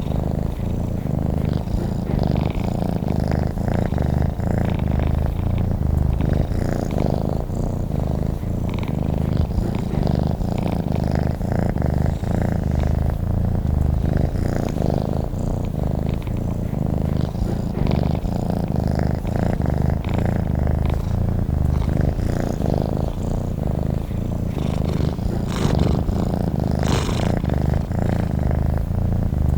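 Domestic cat purring, low and steady, close to the microphone.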